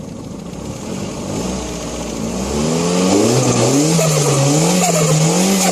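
Turbocharged car engine revving: the engine note climbs about two and a half seconds in and then rises and falls several times as the throttle is worked, with a hiss of air over it.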